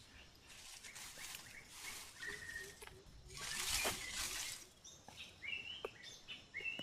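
Small birds chirping in short, varied calls, most of them in the second half. A swell of hissing noise comes and goes around the middle.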